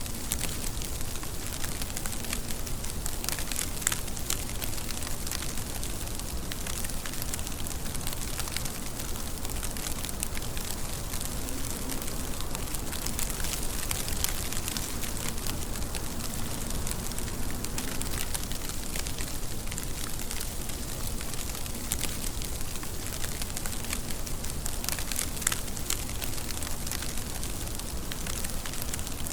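Steady rain: an even hiss of falling rain, dotted with many sharp ticks of drops striking close by.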